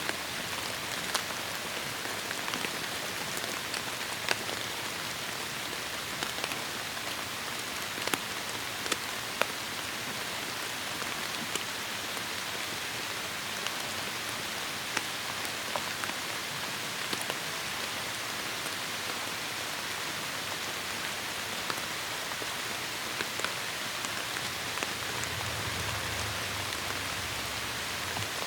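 Heavy rain falling steadily in a forest, a dense even hiss with many close drops ticking sharply on leaves and surfaces. A faint low rumble rises under it near the end.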